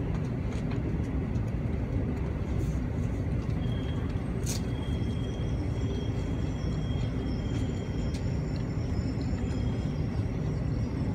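Steady low rumble inside the passenger cabin of an N700A Shinkansen train running slowly alongside a station platform, with a faint high whine from about four to nine seconds in and a single sharp click partway through.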